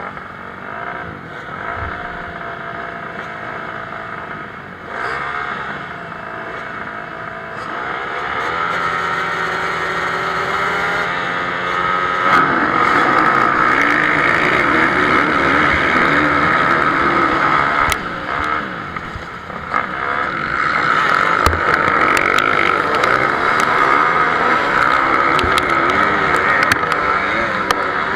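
Motocross motorcycles racing, engines revving and rising in pitch as they accelerate; the engine sound grows louder and denser about twelve seconds in as several bikes run close together.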